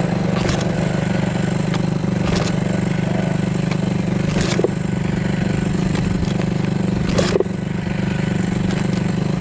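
Dirt bike engine idling steadily, with a few sharp clicks or knocks over it.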